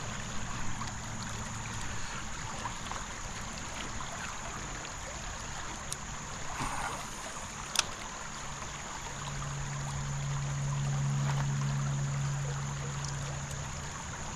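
Creek water running steadily over a shallow riffle. In the second half a low hum swells and fades, and there is a single sharp click about eight seconds in.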